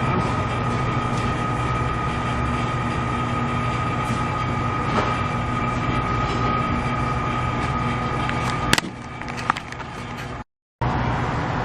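A machine running steadily with a constant high whine over a low hum. It cuts off with a sharp click about nine seconds in, leaving quieter background noise, and the steady running noise comes back after a brief dropout near the end.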